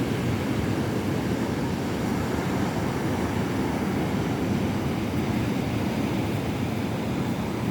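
Surf of a rough sea breaking on a beach: a steady, low wash of waves with no single crash standing out.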